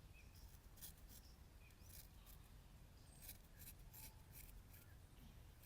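Straight razor scraping over stubble in a string of short, faint, irregular strokes, over a low steady hum.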